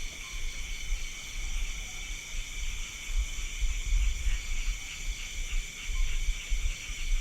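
Night insect chorus: crickets and other insects trilling steadily in several high, overlapping bands, over a low, uneven rumble.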